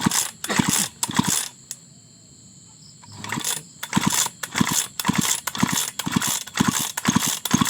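Small engine being turned over with its spark plug out, a rhythmic mechanical chuffing of about two to three strokes a second in two runs with a short pause between them. This is a check on whether fuel from the carburettor is reaching the cylinder.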